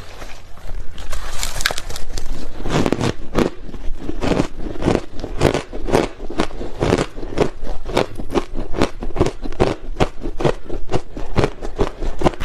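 Ice being bitten and chewed close to the microphone: a rapid, continuous run of crisp crunches, several a second.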